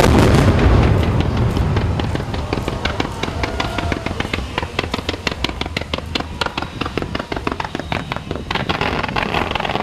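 Fireworks going off: a loud booming shell burst with a low rumble at the start, then dense rapid crackling pops that keep up until they stop near the end.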